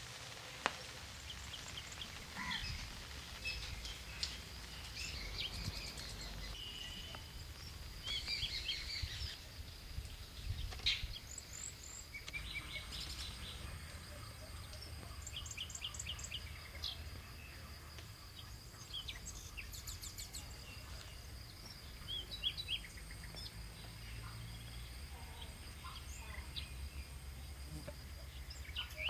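Birds chirping and calling in short repeated notes and trills, over a steady high-pitched tone and a low background rumble.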